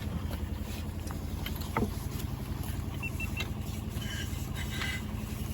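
Diesel engine idling steadily with an even low throb. A short falling whistle-like tone sounds about two seconds in.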